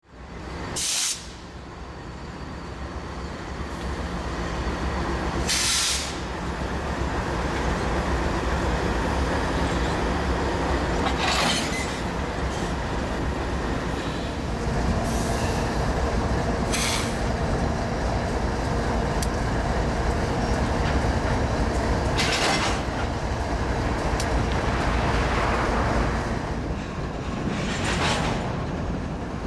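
Diesel freight locomotives and rail cars rolling slowly in a yard, a steady low rumble with brief hissing bursts from the train every few seconds.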